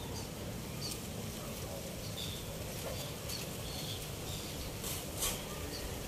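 Faint, scattered small bird chirps over a steady low outdoor background rumble, with a couple of brief rustles about five seconds in.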